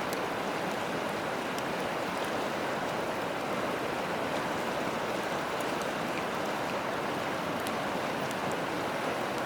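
Steady rush of flowing river water, with a few faint scattered crackles from a wood campfire.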